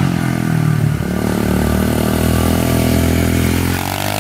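SSR 125 pit bike's single-cylinder four-stroke engine under throttle as the bike rides past, its pitch dropping near the end as it goes by. It is running with the choke off, its clogged pilot jet freshly cleaned.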